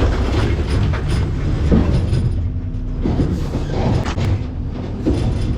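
A McNeilus ZR rear-loader garbage truck running while its hydraulic packer compacts trash in the hopper: a steady low engine rumble with several metal creaks, squeals and clanks about a second apart.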